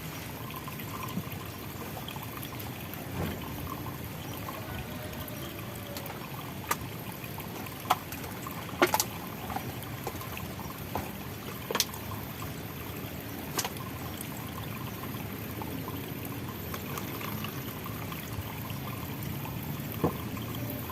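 Steady trickling, pouring water, with a few sharp clicks or knocks scattered through it.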